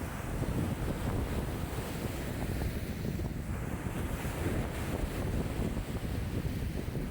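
Choppy lake waves sloshing and breaking in a strong wind, with wind buffeting the microphone in a steady low rumble.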